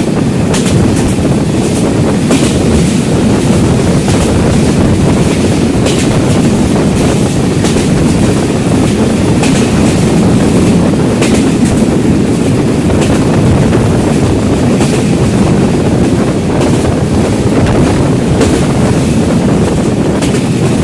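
Train running at speed: a loud, steady rumble with wind buffeting the microphone and sharp clacks of the wheels over the rail every second or two.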